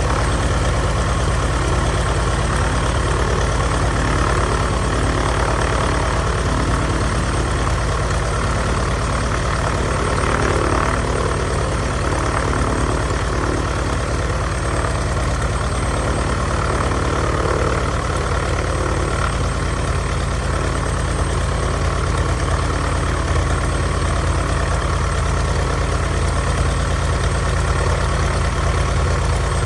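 A 1948 Cessna 170's Continental six-cylinder engine and propeller running steadily at low rpm, warming up on its first run after the aircraft sat unused.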